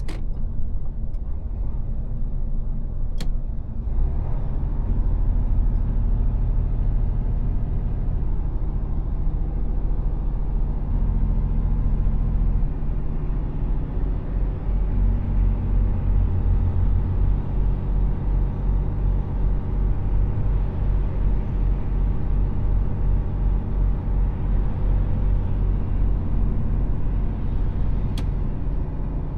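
Mercedes-Benz Actros truck's diesel engine running while driving, a steady low rumble whose note shifts a few times. A few single sharp clicks: one at the start, one about three seconds in, one near the end.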